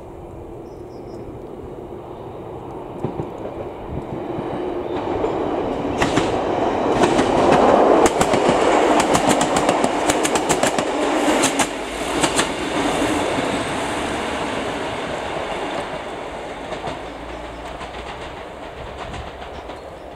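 A train passing close by: its rumble builds, is loudest about eight seconds in with a rapid clatter of wheels over rail joints, then slowly fades away.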